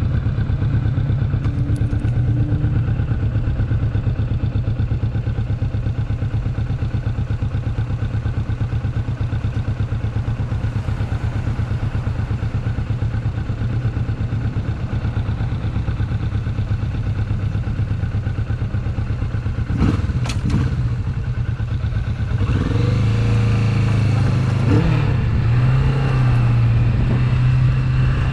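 Motorcycle engine running steadily while riding. About two-thirds of the way in the revs rise and fall several times and the engine gets louder.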